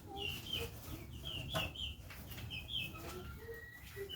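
Birds chirping: a quick string of short, high chirps, often in pairs, a few each second, with some fainter lower notes among them.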